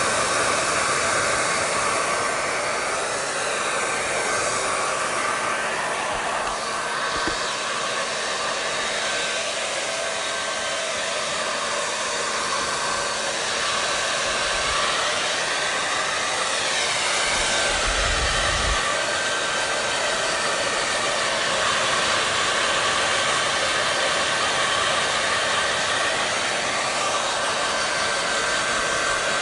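Hair dryer running steadily, a continuous airy rush of fan and blowing air with a faint steady hum, its pitch wavering slightly now and then.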